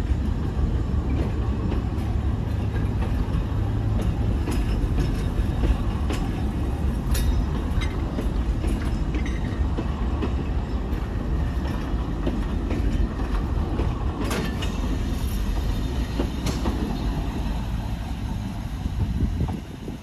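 Alishan Forest Railway narrow-gauge train running on the track: a steady low rumble from the diesel locomotive and the cars, with scattered clicks of wheels over the rail joints.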